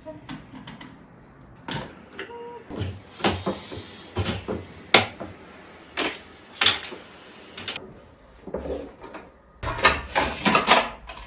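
Household cleaning and handling noises: a series of separate knocks and clicks of objects being set down and moved, with light rustling between them, and a denser burst of clattering about ten seconds in.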